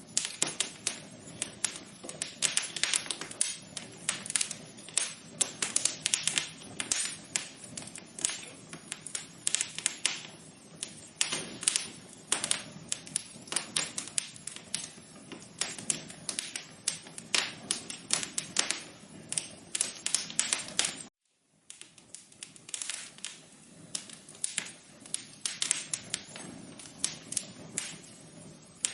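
Wood fire crackling: a dense, irregular run of pops and snaps over a low hiss. It cuts out completely for about half a second roughly two-thirds of the way through.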